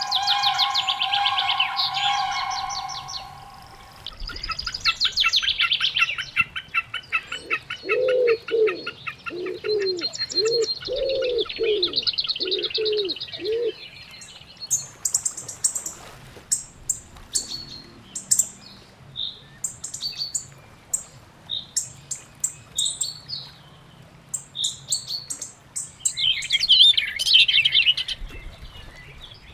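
Several birds singing together. A held call opens the stretch, followed by rapid trills and, in the middle, a run of about eight low notes. The second half is full of short, high chirps, with a denser flurry near the end.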